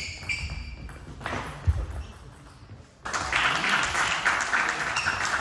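Spectators clapping in a sports hall, starting suddenly about three seconds in, after a short ringing ping at the start.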